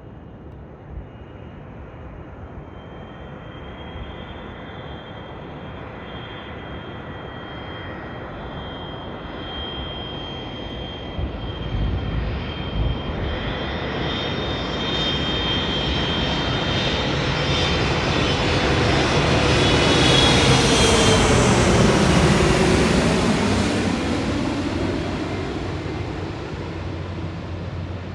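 Boeing 777F on final approach, its two GE90-115B turbofans whining and growing steadily louder as it nears, passing closest about twenty seconds in with the pitch dropping, then fading.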